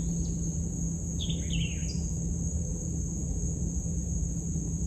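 Steady, high-pitched drone of insects on a riverbank, with a few short bird chirps a little over a second in.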